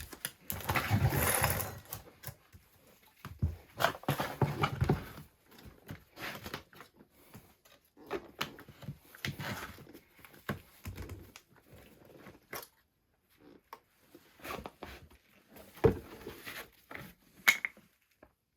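Irregular thuds, knocks and scraping of wood being handled, with no chainsaw running.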